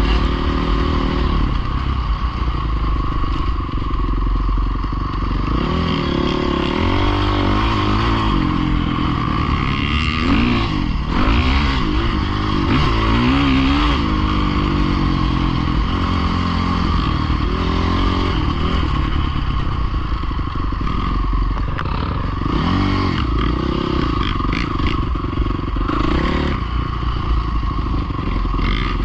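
Dirt bike engine running, its revs rising and falling several times in the middle of the stretch and again near the end.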